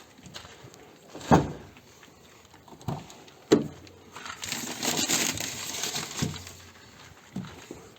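Work noise from handling car parts: a few sharp knocks, about a second and a half in, again around three and a half seconds and once more near six seconds, with a stretch of rustling in between.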